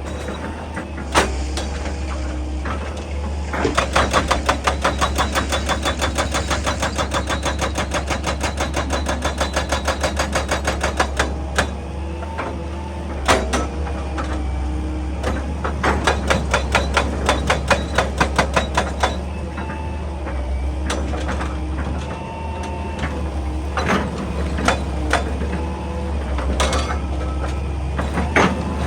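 Excavator-mounted hydraulic breaker hammering rock in two long runs of rapid, even strikes, over the excavator's steady diesel engine. Single knocks and engine changes fill the gaps between the runs.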